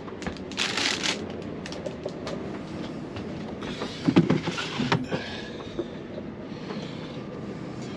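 Storm wind buffeting a caravan, a steady rushing rumble, with a brief rustle about a second in and a few light knocks from food being handled.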